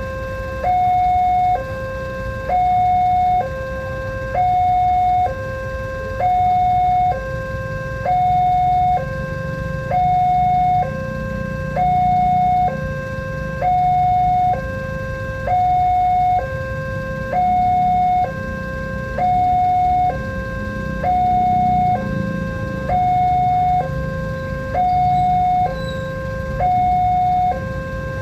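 Indonesian railway level-crossing warning alarm sounding its two-tone electronic signal: a higher tone and a lower tone alternate, one cycle about every two seconds. A low rumble builds under it through the middle.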